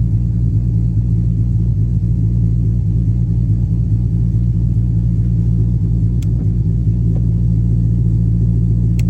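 Dodge Charger's engine idling with a steady low hum. Two short clicks come about six and nine seconds in.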